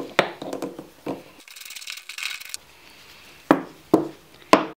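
Hand tools and small metal parts being worked while the float bowl is undone from the bottom of a Briggs & Stratton small-engine carburettor. Scattered clicks, a short rasping stretch about a second and a half in, then three sharp knocks near the end.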